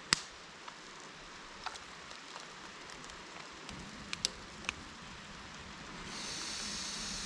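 Chicken cacciatore cooking in a pot: a few sharp clicks of utensils, then about six seconds in a sizzling hiss swells up as the pot heats vigorously.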